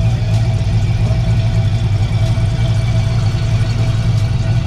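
Car engine idling steadily: an even, loud low rumble that does not change.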